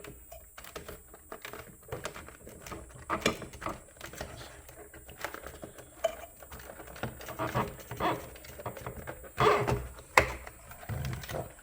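Irregular clicks, knocks and rattles of a Breville Barista Express's plastic housing parts, wires and screws being handled as the machine is taken apart, with a few sharper knocks near the end.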